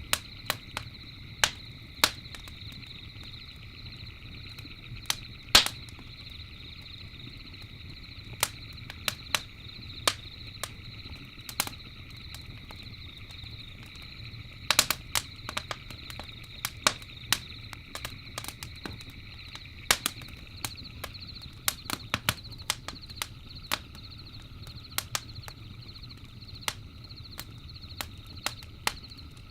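Campfire crackling, with irregular sharp pops and snaps, a few much louder than the rest, over a steady high chirring insect chorus of crickets.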